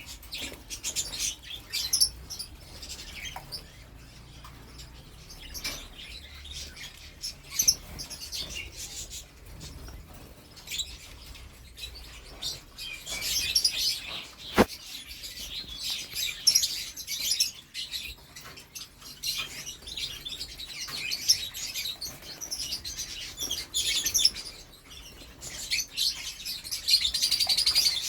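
Canary singing in long runs of rapid, high trills and chirps, loudest about halfway through and again near the end, with one sharp click in the middle.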